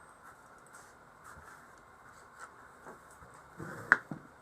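Faint handling of wooden blocks and tools on a workbench, a few light taps and scrapes, with one sharp knock a little before the end, as of something set down on the wood.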